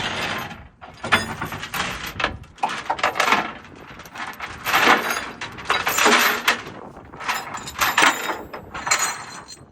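Heavy steel lashing chains rattling and clanking in a series of bursts as they are handled and dragged over a steel trailer deck, with sharp metallic clinks and a little ringing near the end.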